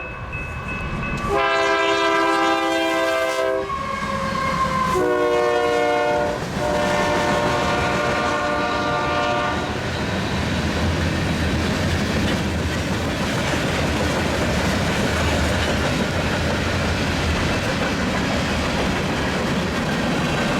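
A diesel freight locomotive's horn sounds three long blasts over the first ten seconds or so. After that, a passing mixed freight train's cars rumble and clatter steadily along the rails.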